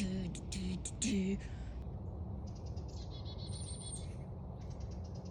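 A songbird singing a rapid trill of repeated notes, about a second and a half long, then again after a short pause, with a thin high whistled note between, over a few spoken words at the start.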